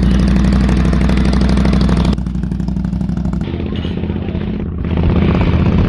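A motor engine running steadily at a low, even speed; its sound shifts abruptly about two seconds in and again about a second later.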